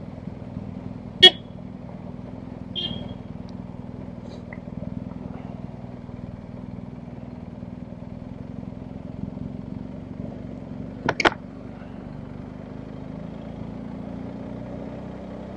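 BMW R1250GS Adventure's boxer-twin engine running steadily at low revs. Brief sharp sounds break in about a second in, near three seconds, and twice in quick succession around eleven seconds; the one a second in is the loudest.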